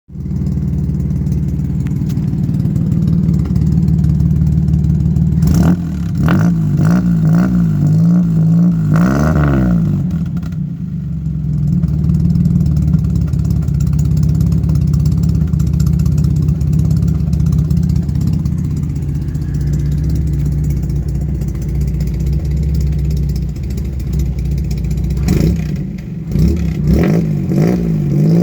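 1950 Plymouth Special's flathead straight-six running through a custom exhaust, idling steadily with throttle blips that raise and drop the pitch about six to ten seconds in and again near the end.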